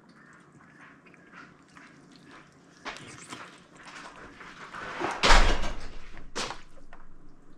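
Knocks and handling noises from gutting a chicken over a plastic bucket, loudest as a thump with a deep rumble about five seconds in.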